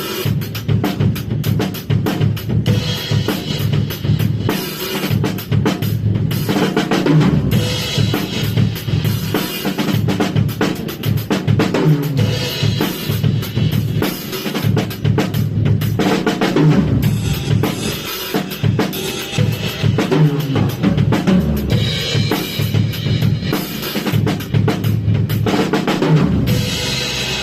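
A drum kit played in a continuous, busy beat: bass drum, snare and rim hits with cymbal wash. It starts to fade out near the end.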